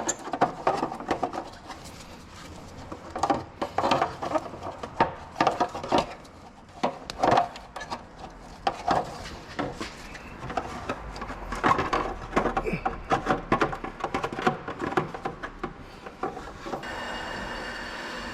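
Hand work on metal car parts: irregular scraping, rubbing and knocking. Near the end a steady machine sound with a held whine starts and keeps going.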